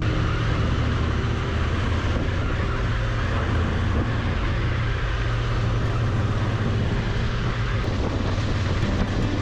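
Honda Africa Twin motorcycle running steadily on the move, with wind rushing over the microphone.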